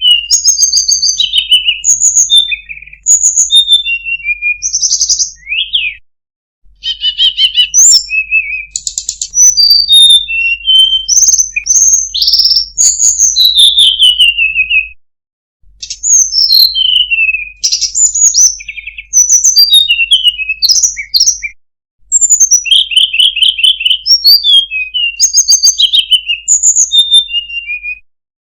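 Recorded songbird song played as a masteran training track: loud, rapid strings of chirps, trills and falling whistles in phrases of several seconds, each ended by a brief silence. A faint low hum runs under the song.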